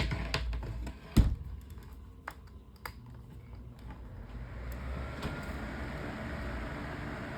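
A few clicks and a sharp knock about a second in, then the electric fan, fitted with a replacement blade, starts about four seconds in and runs steadily with a low hum and a rush of air.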